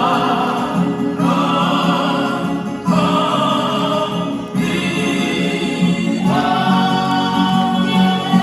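Male vocal quartet singing in harmony with acoustic guitar accompaniment: long held chorus notes, the chord changing about every one and a half seconds.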